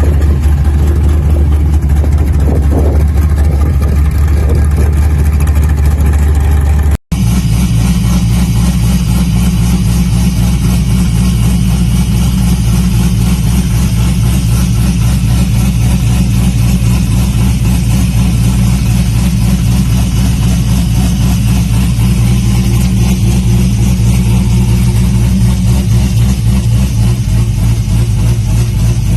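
Big muscle-car V8 engines idling steadily, in two separate clips: one engine for about the first seven seconds, then, after a sudden cut, another with a deeper, heavier idle.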